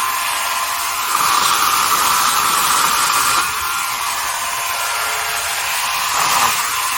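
DeWalt FlexVolt 60V 18-inch cordless electric chainsaw running with a steady electric-motor whine and chain noise, the whine getting louder and brighter for a couple of seconds about a second in and briefly again near the end.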